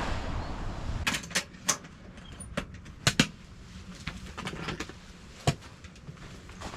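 A series of about a dozen sharp, irregular clicks and knocks, after a brief rushing noise at the start.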